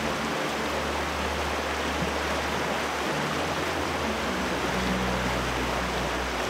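Steady, dense rush of flowing water, starting and stopping abruptly.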